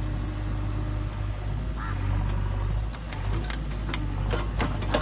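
JCB 3DX backhoe loader's diesel engine running steadily, with a few short sharp clicks or knocks in the second half.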